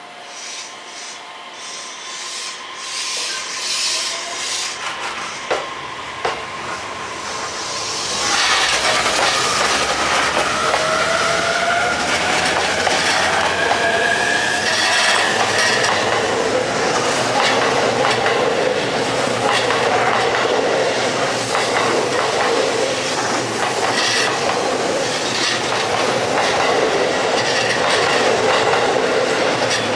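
JR East E531 series electric train accelerating, its inverter motor whine rising in pitch, then a steady loud run of wheel noise with rhythmic clicking over the rail joints as the cars go by.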